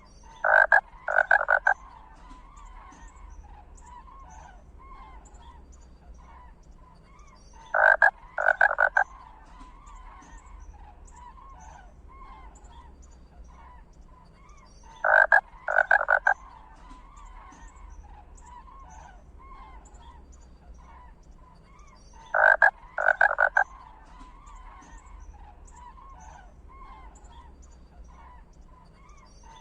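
A loud, rattling double call repeats about every seven seconds, four times, over a steady background of faint chirping calls.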